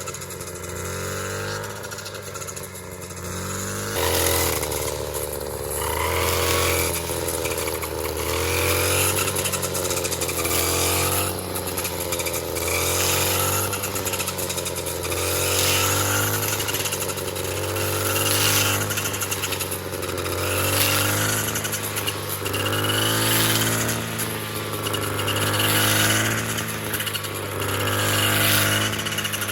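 A small engine running steadily under a changing load, its sound swelling and easing about every two and a half seconds.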